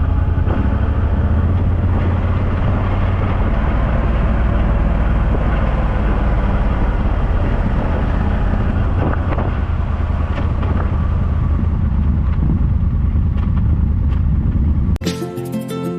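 Motorcycle engine running steadily under way, a low drone with road noise over it. Music cuts in suddenly about a second before the end.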